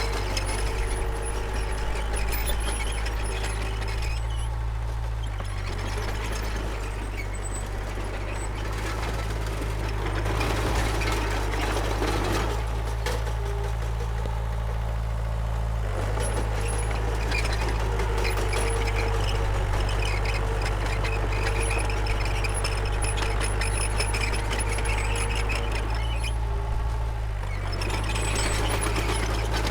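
Komatsu D31P bulldozer's diesel engine running under changing load, its pitch steady but its note swelling and easing every few seconds as the machine works, with short high metallic squeaks now and then.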